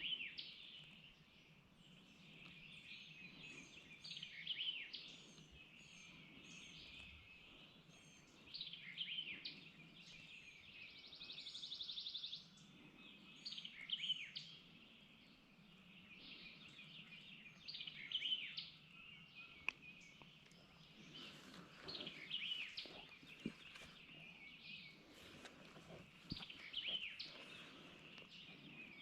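Faint songbirds singing, with short high sweeping phrases repeating every few seconds and a brief buzzy trill about eleven seconds in.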